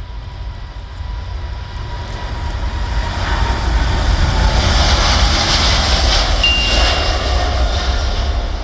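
Jet airliner engines at takeoff power, a roar that builds to its loudest about two-thirds of the way in, with a whine that slowly falls in pitch as the aircraft passes. A short, high ding sounds near the end.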